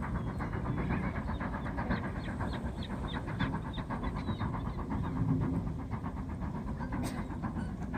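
A train running past with an even clatter of about five strokes a second over a low rumble, fading about seven seconds in.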